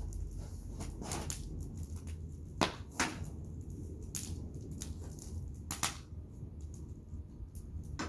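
Wood fire crackling, with sharp pops and snaps scattered irregularly through it, the loudest about two and a half, three and six seconds in, over a steady low rumble.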